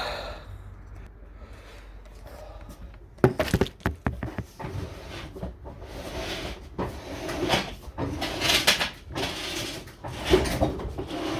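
Clunks and knocks, then irregular scraping and rubbing, as a refrigerator strapped to a dolly is manhandled and shoved.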